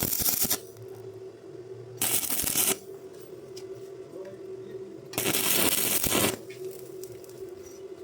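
Electric arc welding on iron: three short bursts of crackling arc, the first very brief, the second under a second and the last just over a second, over a steady low hum.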